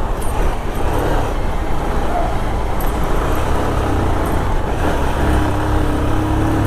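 Road traffic heard from a moving motorcycle: a steady low engine hum mixed with the noise of surrounding cars and buses. A steady engine tone from a nearby vehicle rises out of the mix near the end.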